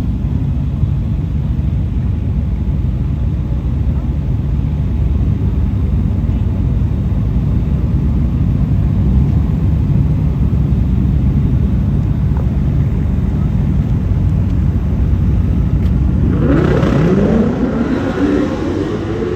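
A car engine running as a steady low rumble, then revving up, its pitch rising sharply about three-quarters of the way through and holding high near the end.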